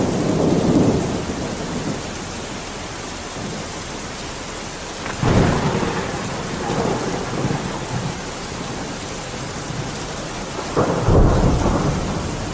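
Steady heavy rain with rolling thunder: rumbles swell at the start, again about five seconds in, and once more near the end.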